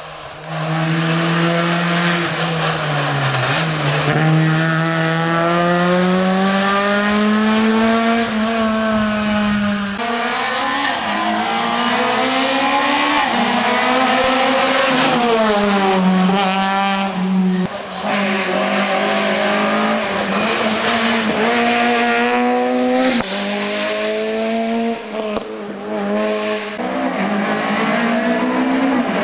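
Rally car engine revving hard on a special stage, its pitch climbing through each gear and dropping at every shift or lift, over and over.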